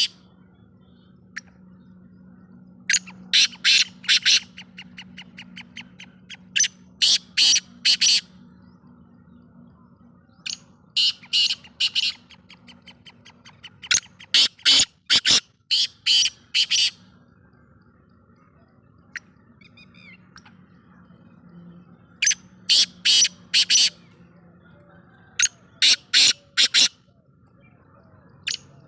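Black francolin calling: loud, harsh phrases of about four to six sharp notes, repeated every three to four seconds, with fainter rapid runs of notes between some phrases.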